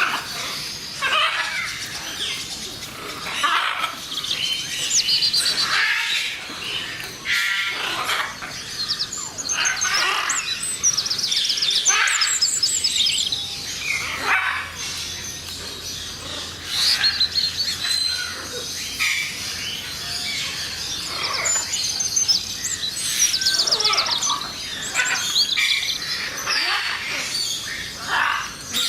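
Birds chirping and calling without pause, with many short high chirps and fast trills.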